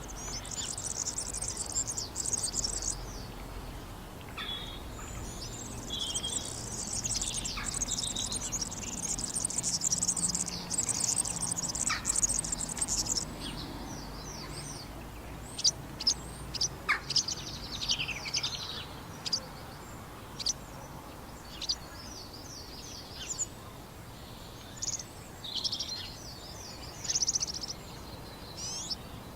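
European serins singing: long, high, fast jingling trills through the first half, then shorter chirps and sharp call notes.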